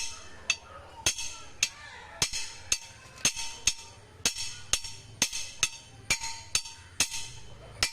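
Hammer blows in a steady rhythm, about two a second, each with a bright metallic ring, as the beehive stand is fixed in place.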